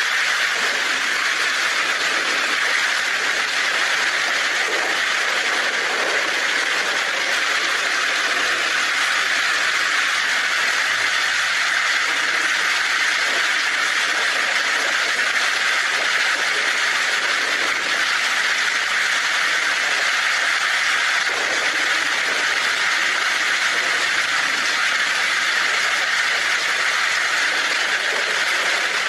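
Torrential rain falling steadily on a tin roof, an even hiss with no break.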